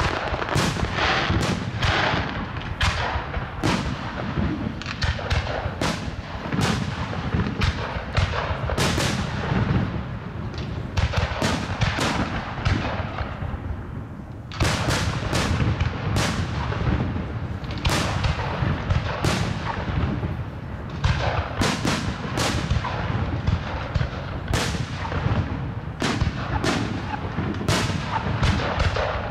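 Aerial firework shells bursting in quick succession, a dense barrage of overlapping bangs. The barrage thins briefly about halfway through, then picks up again with a sudden loud burst.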